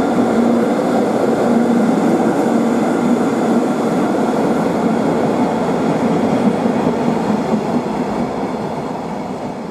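An EF66 electric locomotive passes close by with a container freight train, followed by its container wagons rolling past on the rails. The sound is a steady, loud rolling noise with a low hum running through it, easing off near the end as the wagons go by.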